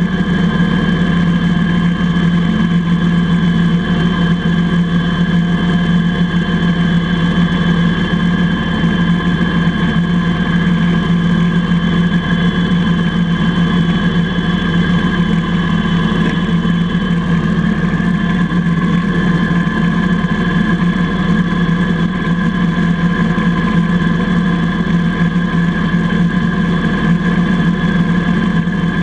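IH Cub Cadet 147 garden tractor's single-cylinder Kohler engine running steadily.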